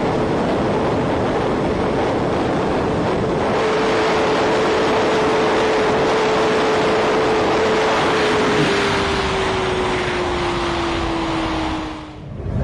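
Sport bike riding at high speed: a heavy rush of wind over the microphone with a steady engine note, which slides slowly down in pitch over the last few seconds. The sound drops away abruptly near the end.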